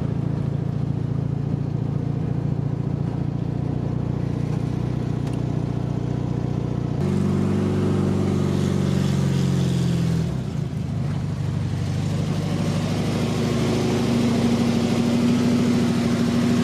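1968 Volkswagen Beetle's air-cooled flat-four engine running as the car is driven, heard from inside the cabin. About seven seconds in the sound jumps to a different engine note, which drops, then settles into a steady run.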